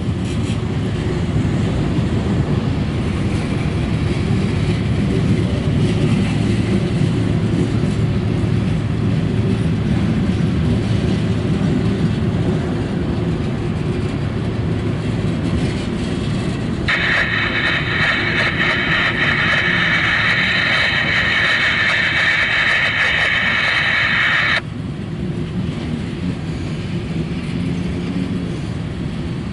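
Freight train cars rolling past with a steady low rumble. A little over halfway through, a high steady squeal joins for about seven seconds, then cuts off suddenly.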